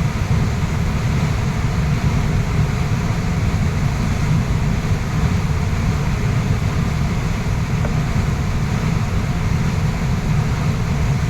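Waterfall's rushing water, a steady, unbroken deep rush with no change in level.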